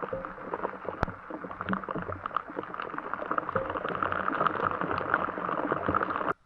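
Rain pattering on a camp shelter: a dense, irregular run of drop hits, with one sharper tap about a second in. It cuts off abruptly near the end.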